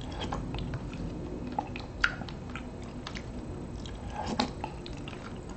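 A person eating chunky soup off a spoon close to the microphone: soft chewing and wet mouth clicks, with a couple of sharper ticks about two seconds in and a small cluster of them near the end.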